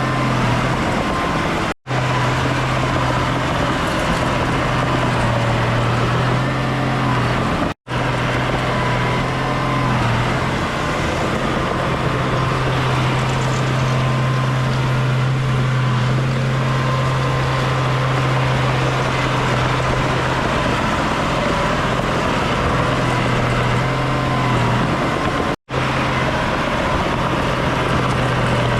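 Heavy diesel earthmoving machinery running steadily at work, a constant low engine drone that cuts out abruptly for an instant three times.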